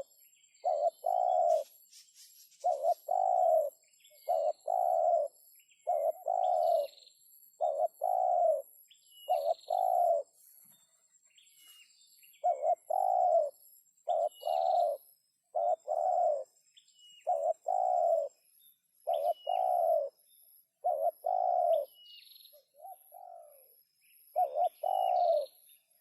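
Spotted dove cooing over and over, each phrase a short note followed by a longer one, about one phrase a second with a short break near the middle. Faint high chirps and a steady faint high whine sit underneath.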